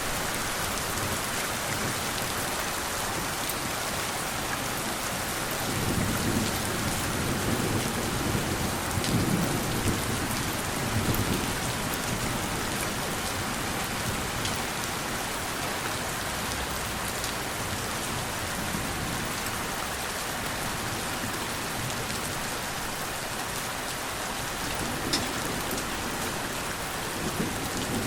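Steady rain falling, with a low rumble of distant thunder building from about six seconds in and fading by about twelve, and a shorter rumble near the end.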